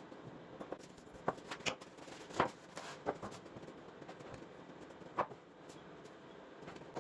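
Scattered light clicks and knocks, about eight in all, the loudest about two and a half seconds in: small parts or tools being handled during a workshop build.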